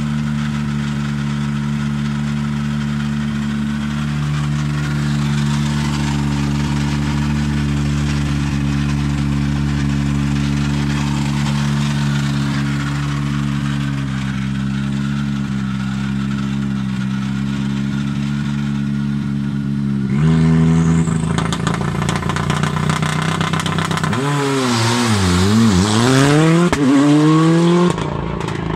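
Hyundai i20 R5 rally car's 1.6-litre turbocharged four-cylinder idling steadily, then about twenty seconds in pulling away, its revs rising and falling repeatedly as it accelerates off.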